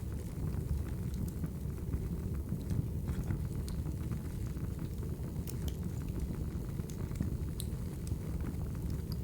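Wood fire burning in a fireplace: a steady low rumble of flames with scattered sharp pops and crackles.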